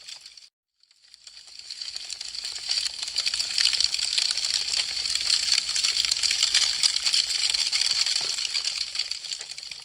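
Wood fire crackling, a dense stream of fine pops and snaps. It fades up from near silence about a second in, stays strong through the middle and fades down near the end.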